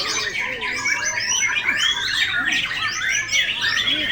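Many caged white-rumped shamas (murai batu) singing at once: a dense, continuous chorus of overlapping whistles, trills and chirps sweeping up and down in pitch, with no single song standing out.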